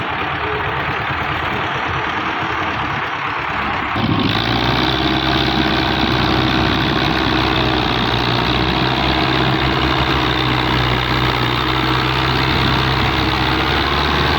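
Massey Ferguson 260 tractor engine running steadily; about four seconds in it changes suddenly and then runs louder with a steady hum.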